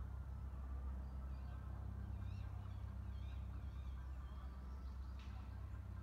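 Faint warbling bird calls over a steady low hum, with a short sharp click near the end.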